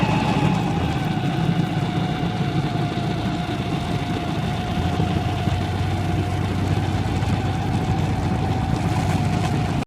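2010 Ski-Doo RS 600 snowmobile's two-stroke twin engine running steadily, a thin whine over a low drone.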